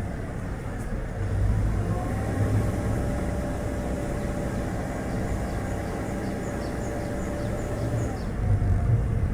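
Chevrolet Spark city car driving, with a steady rumble of road and wind noise. In the second half a bird calls in quick short, high chirps, about two a second.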